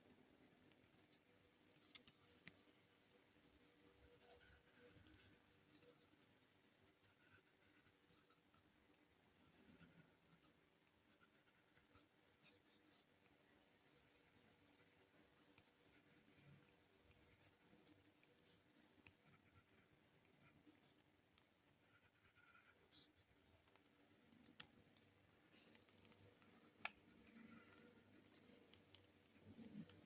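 Faint scratching of a drawing tool on paper in short, irregular strokes, as lines are drawn.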